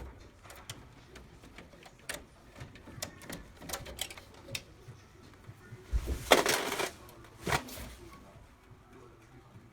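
Irregular light clicks and taps of small objects being handled, with a louder scraping, rustling burst about six seconds in and a sharp click shortly after.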